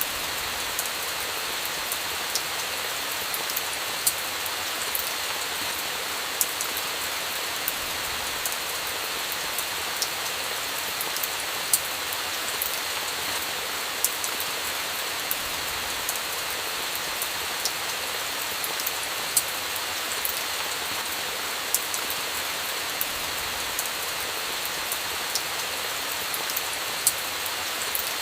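Steady rain hiss mixed with the sharp, irregular crackles of a wood campfire, about one pop every second or two.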